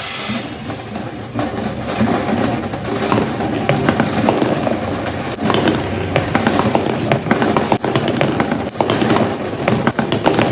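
Many marbles rolling and clattering down a marble run: a continuous rolling rumble with many irregular clicks as the marbles knock against the track and each other.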